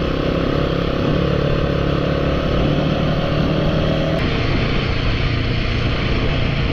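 Royal Enfield motorcycle engine running steadily while riding along a dirt trail, with wind and road noise; the engine note shifts slightly about four seconds in.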